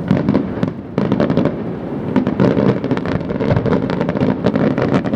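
Aerial fireworks going off in quick succession: many sharp bangs and crackles over a continuous low rumble, with loud bursts at the start and again about a second in.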